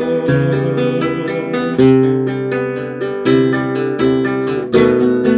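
Acoustic guitar playing an instrumental interlude of a ballad: plucked notes and strummed chords.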